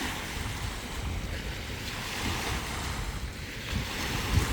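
Lake Superior waves washing on the shore in a steady surf noise, with wind buffeting the microphone.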